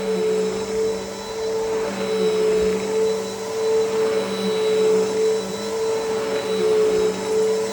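Bissell PowerForce Helix upright vacuum cleaner running on carpet: a steady motor whine over rushing airflow, rising and falling slightly in level about once a second.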